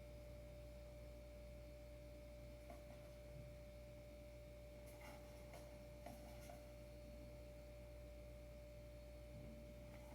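Near silence: room tone with a steady faint electrical tone and low hum, and a few faint clicks in the middle.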